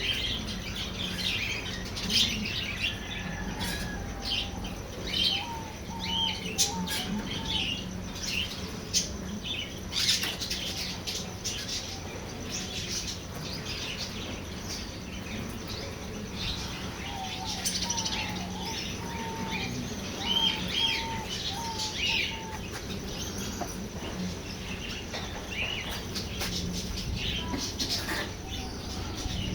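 Many small birds chirping and calling, with sharp flutters of wings throughout. Twice a run of short repeated lower notes comes through, about five seconds in and again near the middle.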